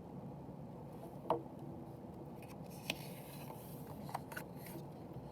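Pages of a picture book being handled and turned: a few light clicks and a soft papery brush about three seconds in, over faint room tone.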